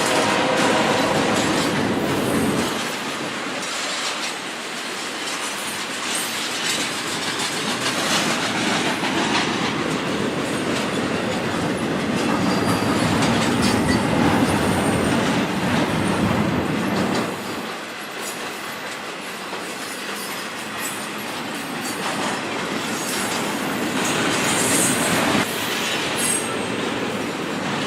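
Freight train cars rolling past, steel wheels clacking over the rail joints, with a brief high wheel squeal near the end.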